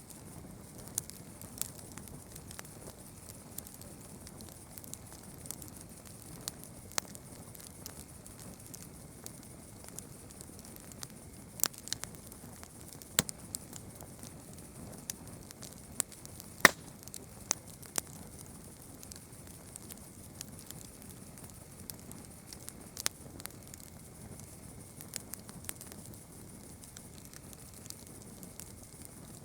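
Campfire crackling: irregular sharp snaps and pops of burning wood over a steady soft hiss, with one louder snap a little past halfway.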